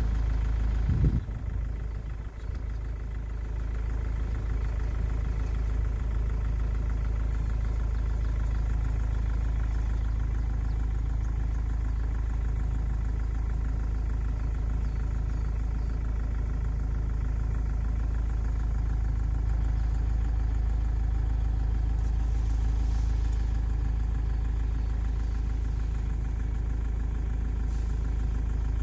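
A steady low mechanical hum with even tones, like an engine idling, and a short knock about a second in.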